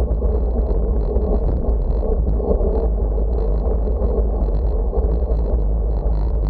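Steady, loud wind buffeting the microphone, a deep rumble with a rushing noise over it.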